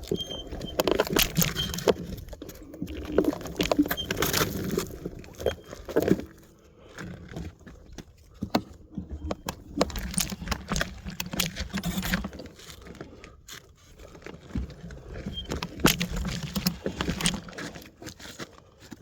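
Kaabo Wolf Warrior dual-motor electric scooter, in two-wheel drive, crawling up a rocky trail: its frame rattles and clatters over the rocks in three bursts, with a low motor hum and quieter gaps between.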